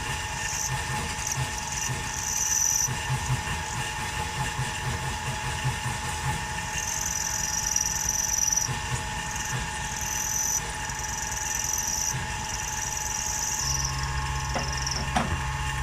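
CNC milling machine at work: a steady motor and spindle whine with a higher whine that starts and stops every second or two as the machine moves. A low steady hum comes in near the end.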